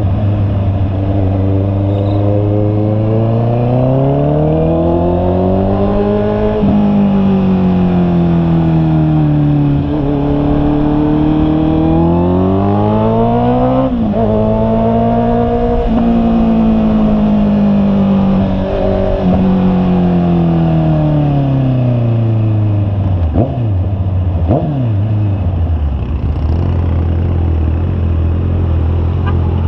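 Honda CB650R's inline-four engine pulling up through the gears, the pitch rising and dropping sharply at shifts about 7 and 14 seconds in. It then winds down as the rider slows, with two quick rev blips on downshifts about 24 seconds in, and settles to a low steady note.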